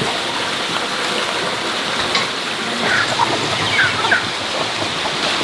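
A steady rushing water noise, with a few short chirps about three to four seconds in.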